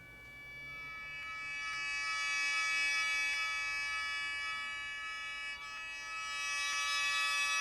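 Sho (Japanese free-reed mouth organ) sounding a sustained cluster chord of many steady tones, swelling in from quiet over the first couple of seconds. It holds the chord with a slight dip in the middle, and some upper notes drop out near the end as the chord shifts.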